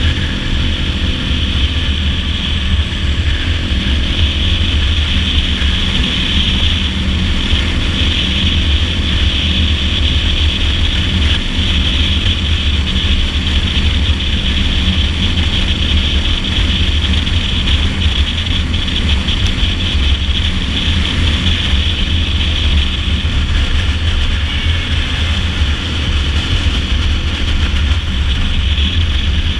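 Dirt bike engine running at a steady cruising speed on the highway, with wind rushing over the microphone; no shifts or revs.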